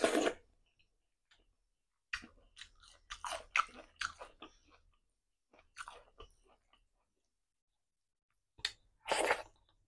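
A person chewing a mouthful of rice and fish curry close to the microphone, in short wet, crackly bursts with quiet gaps between them. The loudest bursts come at the start and again near the end.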